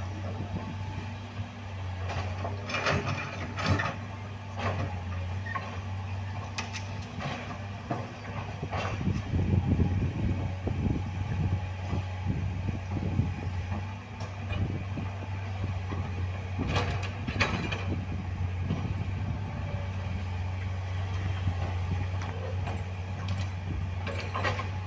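Heavy diesel engine running steadily, with scattered knocks and clanks and a louder rumble about halfway through.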